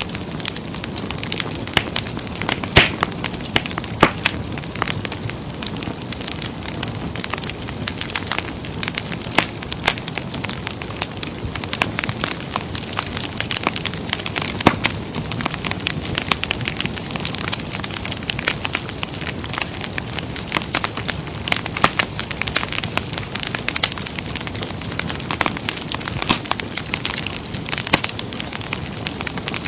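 Wood fire crackling in a fireplace: a steady low rush of flame with frequent sharp pops and snaps scattered at irregular intervals.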